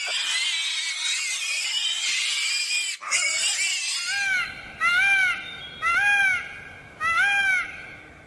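High-pitched animal calls: a dense overlapping chorus of squeals for about three seconds, then four separate squeals about a second apart, each rising and falling in pitch.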